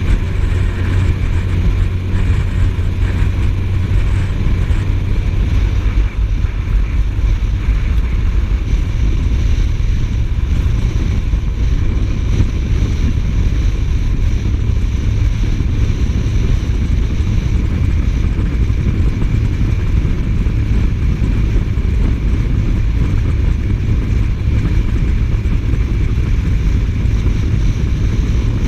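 Suzuki GSF1250S Bandit's inline-four engine running at steady cruising speed, heard as a low drone under steady wind noise on the rider's microphone.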